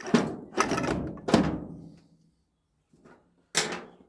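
Scrap metal parts being handled: four loud knocks and clatters, three close together in the first second and a half and one more near the end, each with a short ring.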